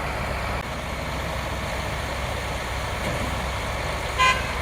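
Heavy diesel engine of a concrete pump truck running steadily while it pumps concrete. A brief high tone sounds about four seconds in.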